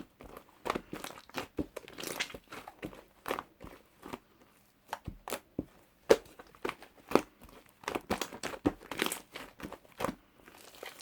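Foam slime mixed with clay being squeezed and pressed by hand, giving irregular sticky crackles and pops, several a second.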